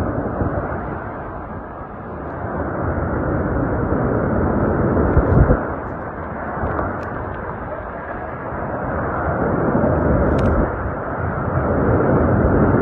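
Hurricane-force wind gusting, swelling and easing in waves, buffeting the microphone. A low thump comes about five seconds in, and a few sharp clicks follow later.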